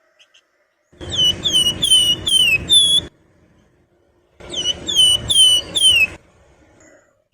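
Flamboyan songbird (wergan Jawa) singing: two phrases, each a quick run of about five clear whistled notes that slide down in pitch, with a pause of about a second between them.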